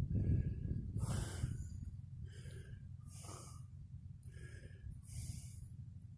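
A person breathing close to the microphone, a soft breath about every two seconds, over a low steady rumble.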